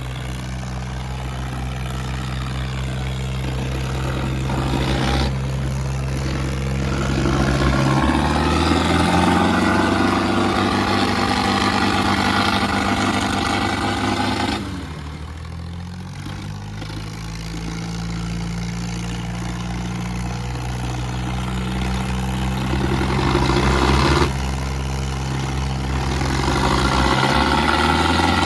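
Tractor diesel engines running hard under heavy load as two tractors pull against each other in a tug-of-war, the pitch shifting as they strain. The sound builds, drops sharply about halfway through, builds again, and drops again near the end.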